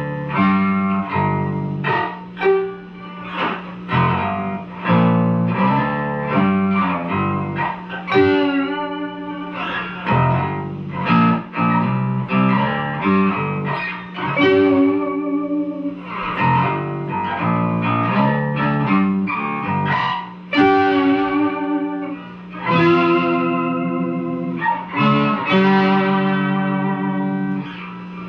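Guitar playing a chord groove: plucked notes and chords in a continuous rhythm.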